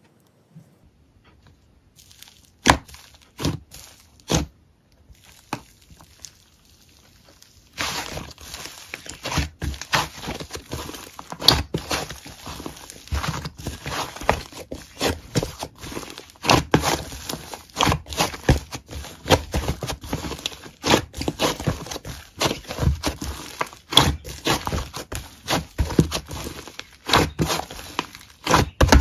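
Close-up handling noise: a few separate sharp clicks, then from about eight seconds in a dense run of rapid crinkling and clicking.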